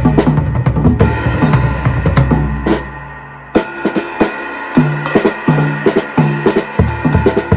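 Drum kit played, with a 16-inch floor tom converted to a bass drum, a hole cut in its head, giving a long low boom under the strokes. The playing lets up briefly about three seconds in, then a steady beat starts again.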